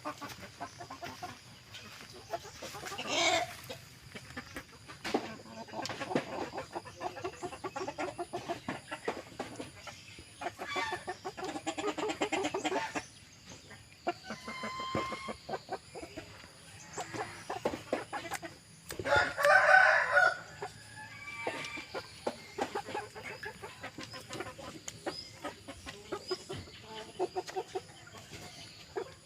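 Aseel chickens clucking on and off, with a rooster crowing; the loudest crow comes about two-thirds of the way through.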